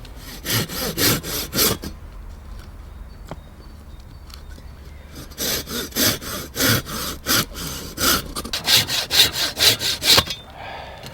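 Hand saw cutting wood in back-and-forth strokes: a few strokes, a pause of about three seconds, then a longer run of strokes, about three a second, that quickens near the end before stopping.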